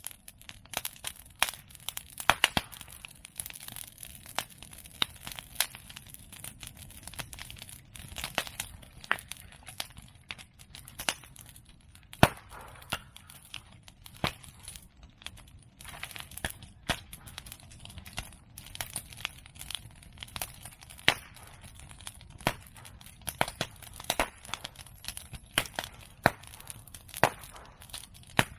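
Open bonfire of cut medake bamboo and chestnut prunings crackling, a steady stream of small snaps with louder sharp pops at irregular intervals, one of them about twelve seconds in.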